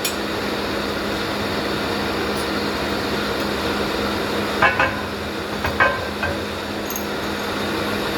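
Steady machine hum in a machine shop, with a couple of short metallic clinks about halfway through.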